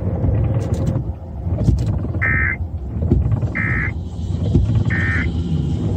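Low, steady rumble of a vehicle cabin with three short electronic beeps, evenly spaced about a second and a half apart.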